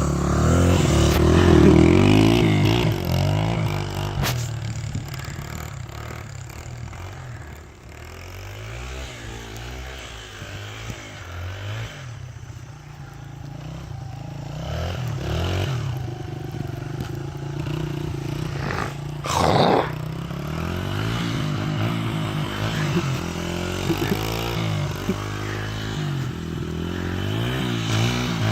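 Honda XR100 dirt bike's single-cylinder four-stroke engine revving up and down as it is ridden through snow. It is loudest in the first few seconds, drops back for a stretch in the middle, then picks up again, with a brief loud burst about two-thirds of the way through.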